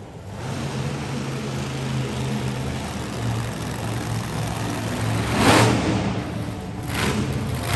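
Monster truck engine running hard, with a loud surge of revving about five and a half seconds in.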